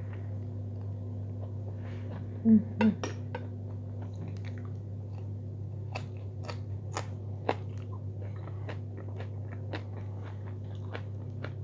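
Close-miked chewing and wet mouth clicks and smacks of a person eating soft fried eggplant, over a steady low hum. Two louder short sounds come about two and a half seconds in.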